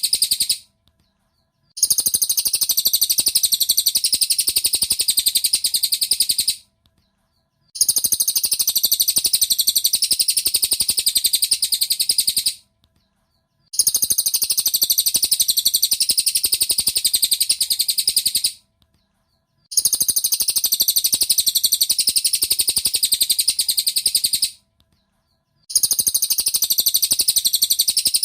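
Recorded cililin bird song played as a masteran (tutor track): a fast, high chattering call in phrases of about five seconds, each followed by a pause of about a second, repeating evenly as a loop.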